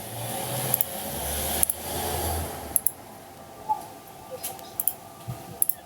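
Scattered sharp clicks of a computer mouse and keyboard, a dozen or so, irregularly spaced, over a low hum that fades out about two and a half seconds in.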